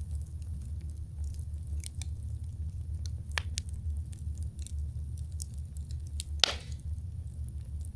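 Wood campfire burning: a steady low rumble under scattered small crackles, with one loud pop about six and a half seconds in.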